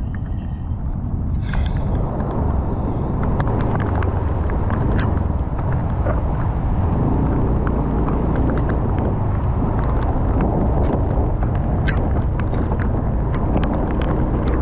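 Storm wind buffeting the microphone in a steady low rumble, with scattered sharp ticks through it, typical of rain hitting close to the microphone.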